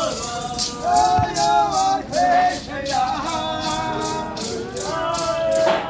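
Voices chanting a rain-dance song in unison over maracas shaken in a steady beat.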